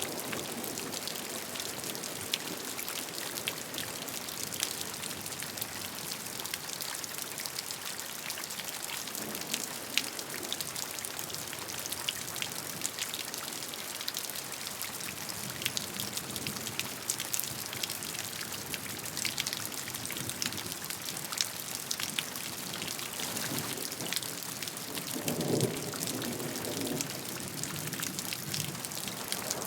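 Steady rain, with many separate raindrops ticking on a surface. A brief low rumble comes near the end.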